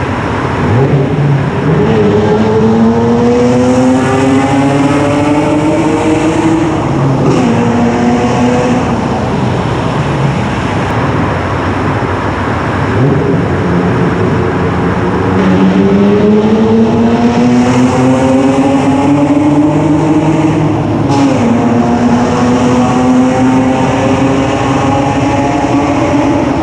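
1995 Ford Probe's 2.5-litre KL-DE V6 pulling hard through a minimal exhaust, its revs climbing through a gear and dropping at a shift about seven seconds in. It eases off briefly, then makes a second long rising pull from about thirteen seconds with another shift around twenty-one seconds.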